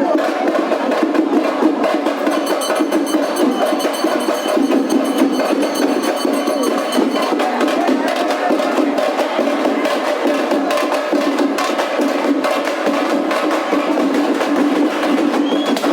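Drums beaten in a fast, continuous rhythm of dense strikes with no pause.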